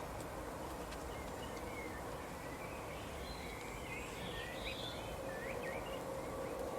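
Small birds chirping in short, quick calls that slide up and down in pitch, busiest in the middle, over a steady background hiss and a faint hum.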